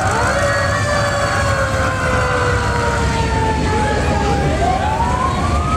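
Fire truck siren wailing: its pitch slides slowly down, then winds up again about four seconds in, over the low rumble of the engine.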